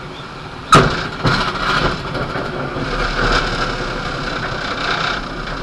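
A hard thump and a second bump about half a second later, then about four seconds of rattling rumble from a K13 glider's airframe: the jolt of touchdown and the glider rolling along the ground in a strong crosswind landing.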